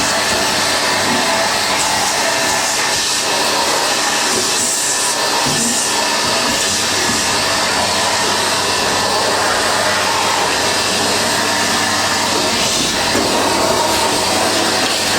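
Numatic Hetty cylinder vacuum cleaner running steadily, sucking through its hose.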